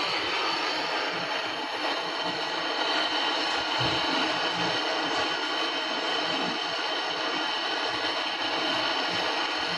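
Brazing torch flame hissing steadily.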